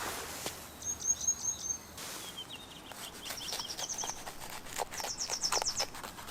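Small birds chirping in several quick phrases of short, high, repeated notes, the last a fast trill near the end. Irregular faint clicks run through the second half.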